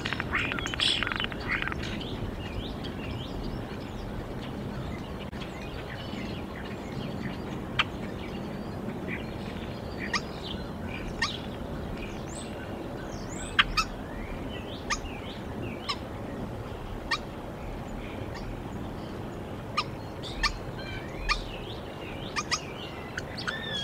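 Wild birds chirping outdoors: scattered short, sharp calls about once a second over a steady background hiss, with a denser flurry of calling right at the start and a few longer chirps near the end.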